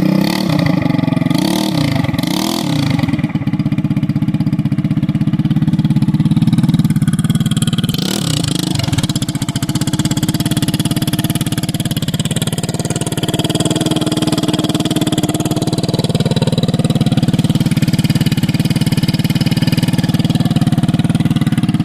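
GY6 150cc single-cylinder four-stroke scooter engine running cold through an aftermarket Danmoto XG-1 exhaust, just after its first startup on the new pipe. It idles steadily with a few short revs in the first few seconds and another about eight seconds in.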